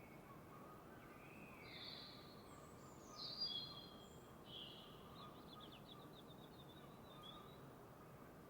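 Birds singing at dawn: a few short high chirps and a quick rattling trill in the middle, over a faint steady hiss.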